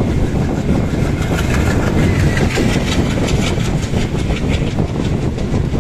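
Two passenger trains running side by side on parallel tracks, heard from the open doorway of one of them: a steady rumble of wheels on rail with a run of rapid clicking through the middle.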